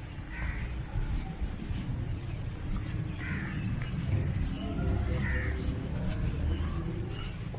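Crows cawing about three times, a few seconds apart, over a steady low rumble of background noise.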